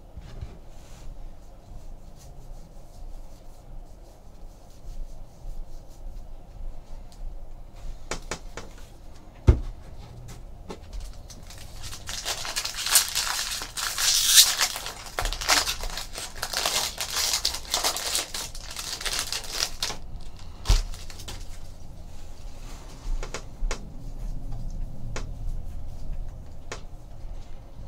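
Foil trading-card pack wrappers being torn open and crinkled, a dense rustle that is loudest for several seconds in the middle, with scattered taps and clicks of cards being handled.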